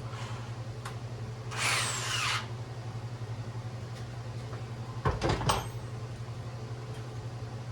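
A power drill with a 17/64-inch bit runs for just under a second, boring the hole for the LED light, a falling whine riding on it. A few seconds later there are several sharp knocks. A low steady hum sits underneath throughout.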